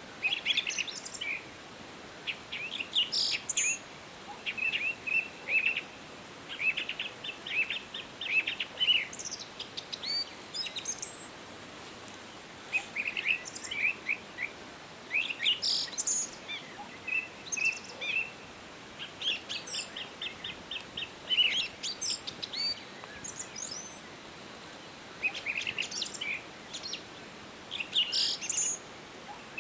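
Songbirds singing in a forest: short high chirps and quick trills coming in bursts every second or two throughout, over a faint steady background hiss.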